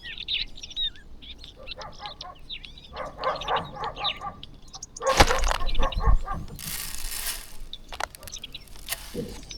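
A flock of birds chirping and calling while feeding. About five seconds in there is a loud thump and rustle, followed by a brief hiss of noise and a few sharp clicks near the end.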